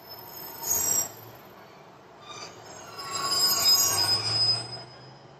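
Class 150 diesel multiple unit squealing as it brakes into the platform: a short high squeal about a second in, then a louder, longer squeal of several high tones from about three seconds in until near the end, over a low rumble.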